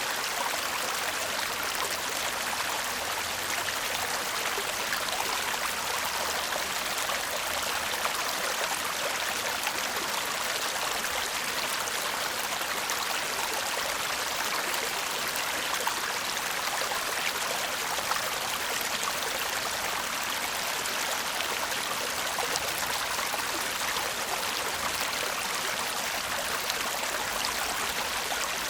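Small stream babbling steadily over stones, a continuous even murmur of running water.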